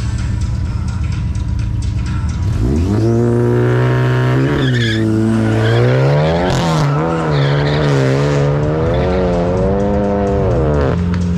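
Two cars launching off a drag-strip start line. Their engines hold a steady rev at first; about two and a half seconds in the revs climb hard and the cars accelerate away, the pitch rising and dropping again at each gear change.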